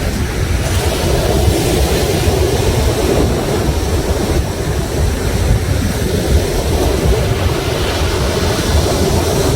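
Sea waves washing and breaking on the shore in a steady wash of surf, with wind rumbling on the microphone.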